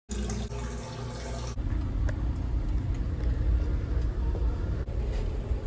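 A hiss like running water for about a second and a half, then the steady low rumble of a car driving, heard from inside the cabin.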